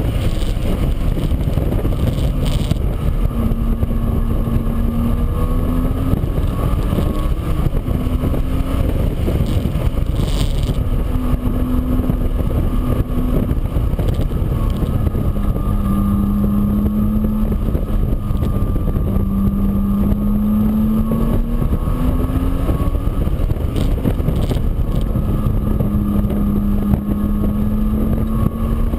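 An engine running under heavy wind rumble, its pitch drifting slowly up and down.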